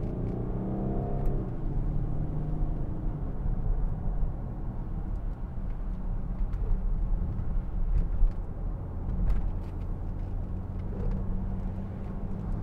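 Range Rover 3.0 TDV6 diesel engine accelerating under throttle, heard from inside the cabin, its note changing over the first few seconds. It then settles into a steady low drone with road noise as the car drives on.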